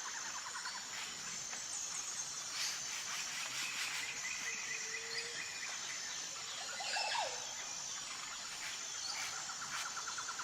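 Wild ambience: a steady high chorus of insects with repeating trills, and a few short bird calls, one about five seconds in and a stronger one about seven seconds in.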